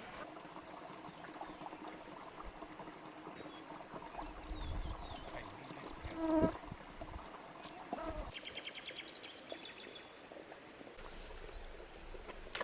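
Quiet field ambience with insects chirping, including a rapid high trill a little past the middle, and one brief louder sound about halfway through.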